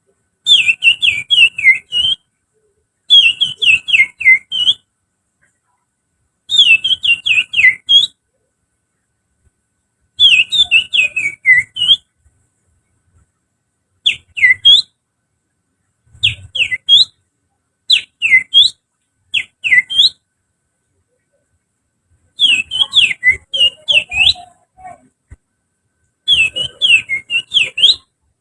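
Finger whistling that imitates an oriental magpie-robin's (kacer's) song, used as a lure to set birds singing. It comes in about ten short phrases of quick, sharp, falling whistled notes, with pauses between them.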